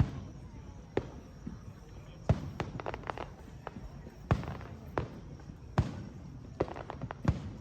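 Fireworks shells bursting: a string of about a dozen sharp bangs at irregular intervals, some coming in quick pairs.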